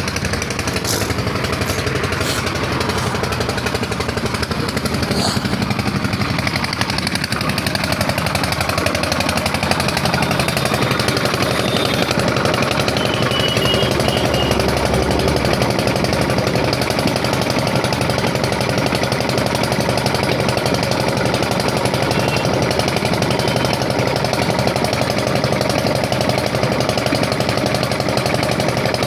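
Truck diesel engine idling steadily while its air compressor builds up air pressure, with a few light clicks in the first few seconds.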